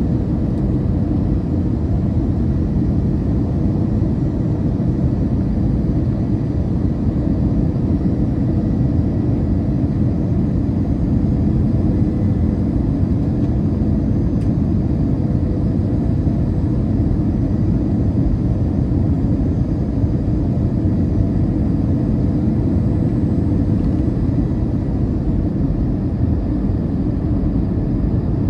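Steady cabin rumble of an Airbus A321 coming in to land, heard from inside the passenger cabin: engine and airflow noise with a faint steady hum.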